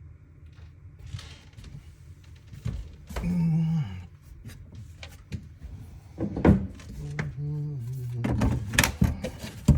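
Scattered knocks and clunks of plumbing demolition work, with a low pitched tone that steps up and down in pitch about three seconds in and again through the last three seconds.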